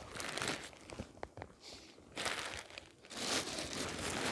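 Rustling and crunching as firewood is handled and set down, with a few light knocks about a second in.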